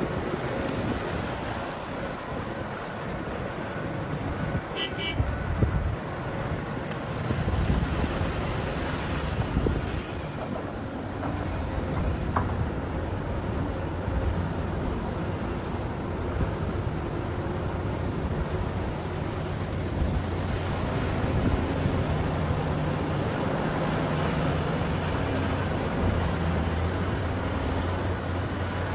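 Heavy mining machinery running: the diesel engines of excavators and haul trucks at work, with a steady low engine pitch settling in after about ten seconds. A brief high tone sounds about five seconds in.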